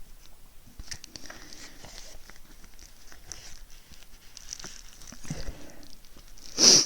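Small clicks, taps and scratches of plastic and cardboard packaging being handled and picked at while trying to open it, with one short, loud scraping rustle near the end.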